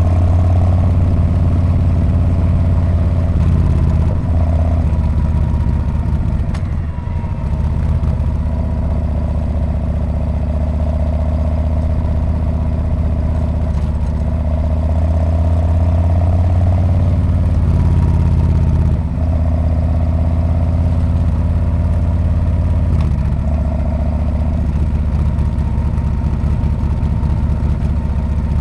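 Harley-Davidson Street Bob's V-twin engine running with a steady, low exhaust note. The note eases off briefly about seven seconds in and again around nineteen seconds.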